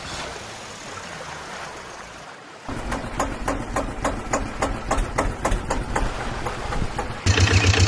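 Diesel-type engine idling with an even knocking beat, about four a second, starting a little over two seconds in; near the end a louder engine cuts in suddenly with a heavier, faster pulse.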